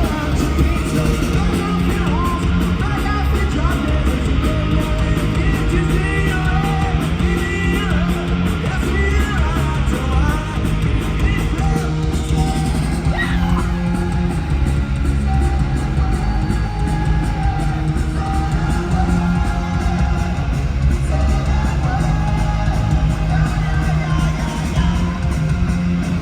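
Live punk rock band playing loud through the venue PA: distorted electric guitars, bass and drums, with shouted vocals and the crowd yelling along.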